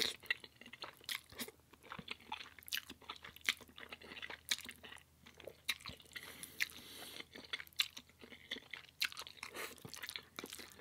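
A person chewing and biting food close to the microphone, with many irregular, sharp crunching clicks.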